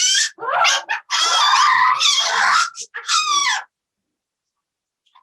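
Parrot screeching in a run of loud, harsh calls that stop abruptly a little over halfway through.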